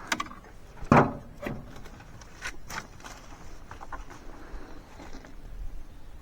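A series of short, sharp knocks and cracks, the loudest about a second in, with smaller ones scattered after it.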